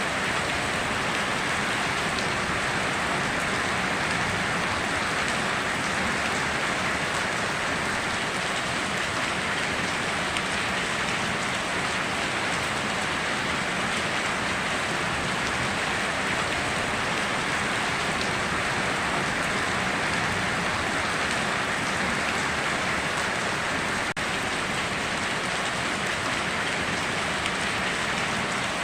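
Steady heavy rain falling, an even hiss of many drops with no let-up. There is a momentary dip in loudness about 24 seconds in.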